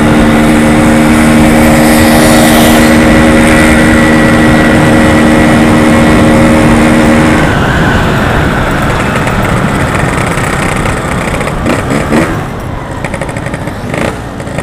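Yamaha RX-King's single-cylinder two-stroke engine running at steady revs while riding, with a held, even pitch. About seven seconds in the throttle is closed and the engine note drops away, leaving a quieter, uneven mix of engine and road noise.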